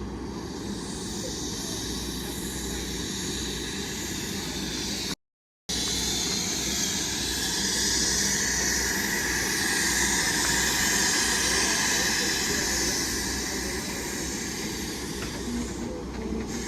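A train running past: a steady rumble with a strong hiss, building to its loudest about halfway through. The sound drops out completely for half a second about five seconds in.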